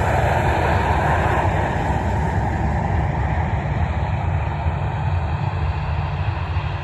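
Jet airliner engines heard from a distance: a steady rushing noise over a low rumble, easing slightly as it goes.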